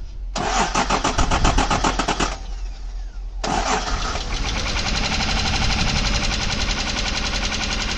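Engine of a Honda Passport runs for about two seconds, drops away for about a second, then starts again and runs steadily with a fast, even ticking, which the owner takes for noisy lifters.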